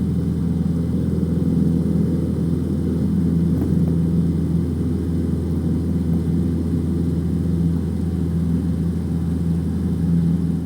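Cessna 150's four-cylinder Continental O-200 engine and propeller droning steadily, heard inside the cabin as a low, even hum.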